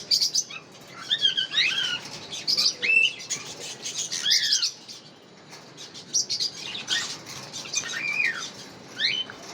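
Pineapple conures bathing: wings flapping and splashing in the water, with about five short chirps that rise and fall in pitch.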